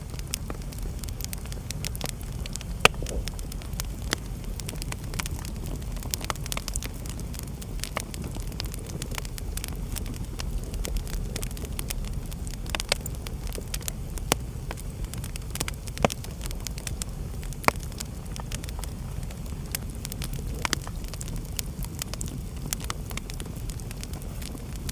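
Wood fire crackling in a fireplace: irregular sharp snaps and pops, a few louder than the rest, over a steady low rumble of the burning.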